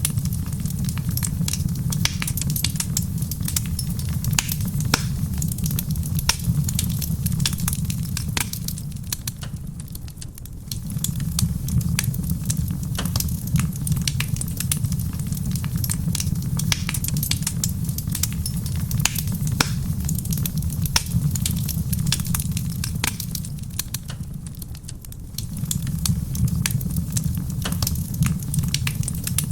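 Wood fire crackling in a stone fireplace: dense, irregular small pops and snaps over a steady low rumble that dips twice, mixed with soft rain.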